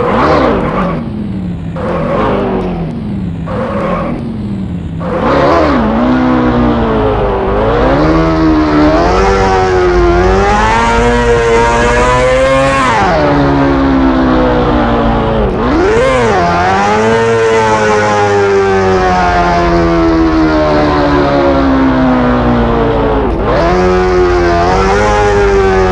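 Kawasaki Ninja H2's supercharged inline-four engine revving. It gives about five seconds of short, quick blips, then a sustained run whose pitch climbs in steps and then falls away in long, slow sweeps, with a brief rise midway and another near the end.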